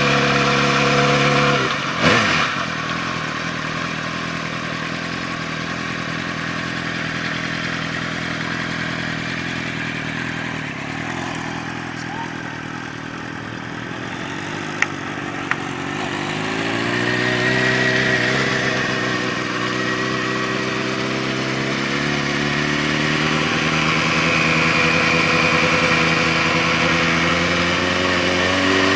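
Motorcycle engine idling steadily, with a sharp knock about two seconds in; about halfway through the engine note dips and then climbs again as it is revved a little, settling back to a steady idle.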